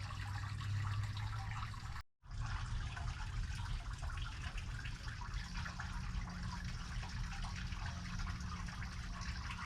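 Garden fountain trickling and splashing steadily into its echo chamber, with a brief silence about two seconds in.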